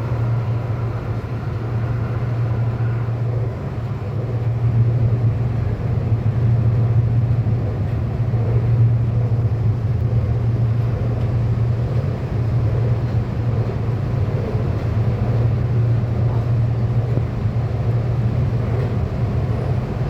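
Sydney Metro driverless train running, a steady low rumble of wheels and running gear. A faint higher whine fades out over the first few seconds.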